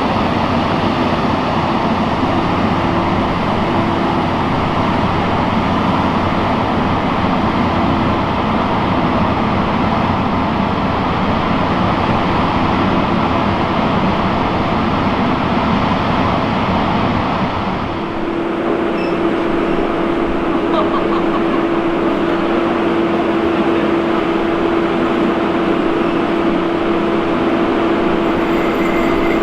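Steam-hauled passenger train running along the track: a steady rumble that changes about two-thirds through, when a steady hum sets in and holds.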